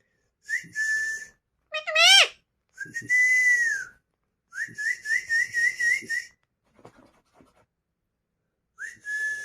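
Parrot whistling a series of whistles: a short steady note, a quick upward swoop, a long held note that sags at the end, then a warbling note with about five quick wiggles. After a quiet gap of about two seconds, another steady whistle starts near the end.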